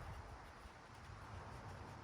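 Faint outdoor background with a low, unsteady rumble of wind buffeting the microphone.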